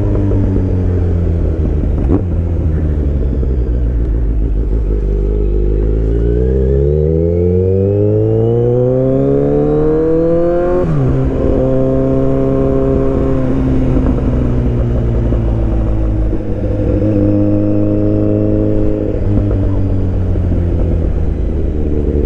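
2023 Kawasaki Z900's inline-four engine on the move, running steadily at first. From about six seconds in it pulls up in revs, and just before eleven seconds an upshift drops the pitch suddenly. It holds there, then climbs again to another shift near nineteen seconds.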